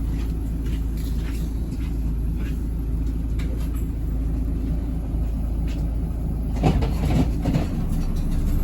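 Bus running, heard from inside the cabin: a steady low engine drone with light rattles, and a few louder knocks and clatters about two-thirds of the way through.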